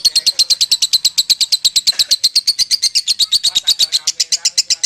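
Lovebird singing a long 'ngekek' chatter: a fast, unbroken string of sharp, shrill notes, about a dozen a second.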